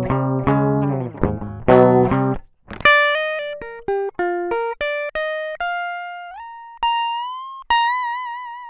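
Electric guitar played with bare fingers through an amp sound. It starts with a quick run of thick, distorted plucked notes. About two and a half seconds in it switches to single notes in a cleaner, purer tone that slide upward to a long high note with vibrato, which falls in pitch as it fades at the end.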